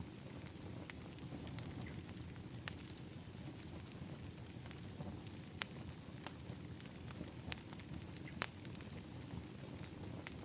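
Wood fire burning in an outdoor fire pit, crackling with sharp pops a few times over a steady low rumble.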